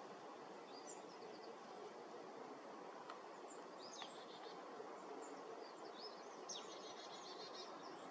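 Faint steady outdoor background hiss with a few short, high bird chirps, most of them in a brief cluster about six to seven and a half seconds in.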